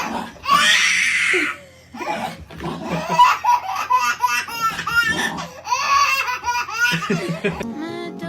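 Hearty laughter in repeated short runs, with a brief lull about two seconds in. Guitar music comes in near the end.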